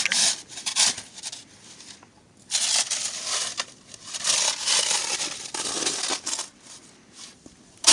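Snow shovel scraping and pushing through deep snow: short scrapes in the first second, then a longer scrape of a few seconds starting about two and a half seconds in.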